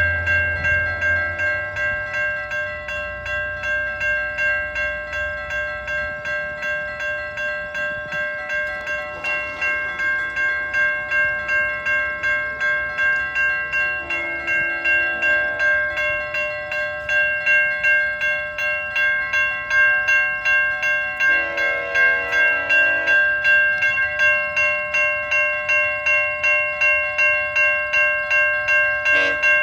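Railway level-crossing warning bell ringing steadily at about two strokes a second, signalling an approaching GO train. Two short, lower chord-like tones sound about 14 and 22 seconds in.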